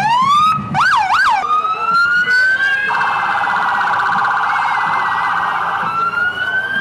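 Emergency vehicle's electronic siren cycling through its tones: a rising whoop, two quick up-and-down yelps about a second in, a slow rising wail, then a fast warbling pulse for about three seconds before it rises again near the end.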